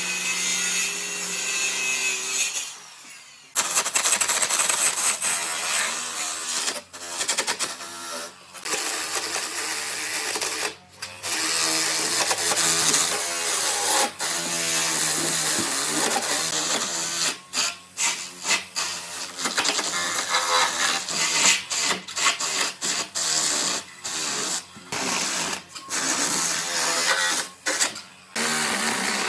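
Power tools working wood, in short stretches that start and stop abruptly.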